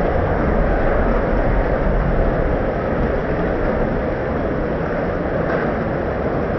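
Steady heavy rain: an even, unbroken rushing noise with a low rumble underneath.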